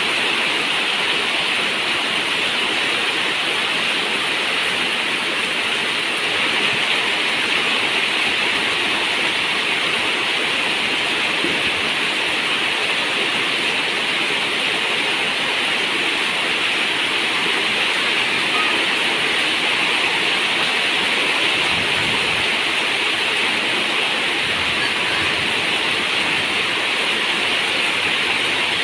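Steady rain on a zinc roof: an even, unbroken rush of water with no let-up.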